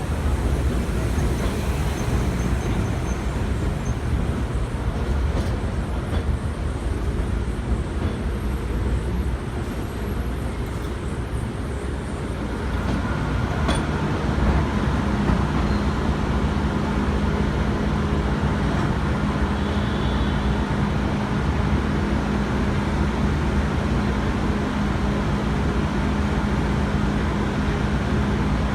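Cabin noise inside an R160B Siemens subway car: steady low rumble of the train, with a steady electrical hum joining and the noise growing slightly louder about halfway through.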